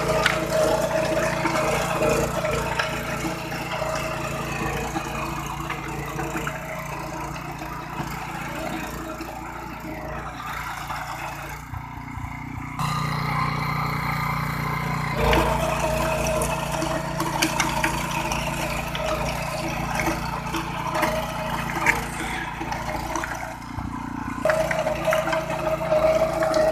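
Engine of a BCS 730 walk-behind power tiller running continuously, its note dropping about halfway through, picking up a few seconds later and shifting again near the end.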